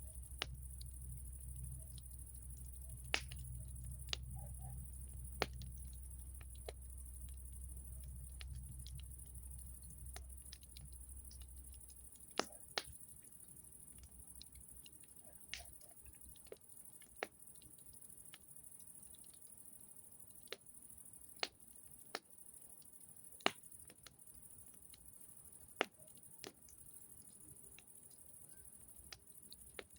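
Wood fire crackling, with irregular sharp pops and snaps, one or two a second. A low rumble sits underneath for the first twelve seconds or so.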